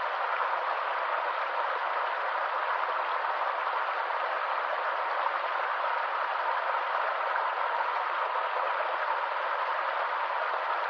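A stream running steadily: an even rush of flowing water, with no change in level.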